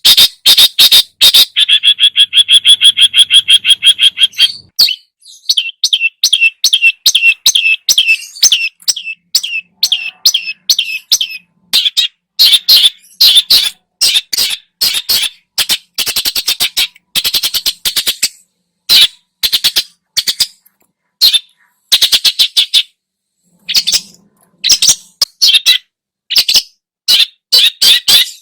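Long-tailed shrike (cendet) singing hard: fast runs of loud, harsh repeated notes with short pauses between them, and a buzzing trill about two seconds in. Its song is full of mimicked calls of other birds.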